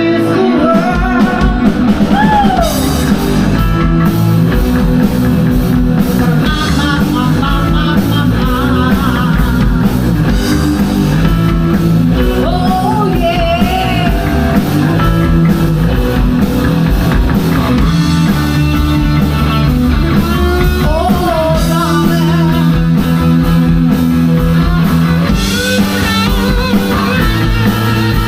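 A rock band playing live, with electric guitar, bass and drum kit and a voice singing over them.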